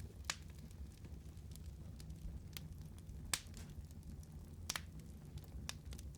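Wood fire burning in a fireplace: a low steady rumble of the flames with sharp, irregular crackles and pops, the strongest a little after the start, about halfway through and a little later.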